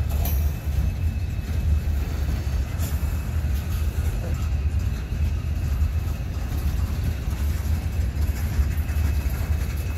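Manifest freight train rolling past on the rails, a steady low rumble that keeps on without a break.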